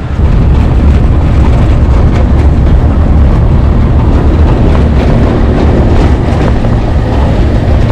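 Steady, loud low rumble of a moving vehicle, road and engine noise heard from inside.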